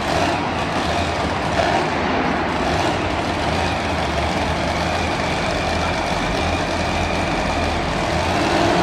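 Monster truck engine running steadily at a fairly constant pitch.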